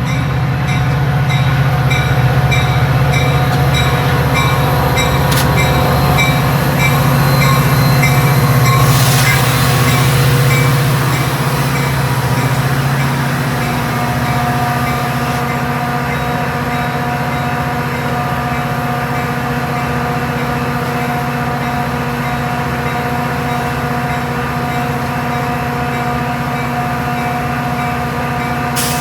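Metra commuter train's diesel locomotive running steadily, a loud drone with several held tones. The low rumble is strongest in the first half and eases off about halfway through, with a brief louder rush about nine seconds in.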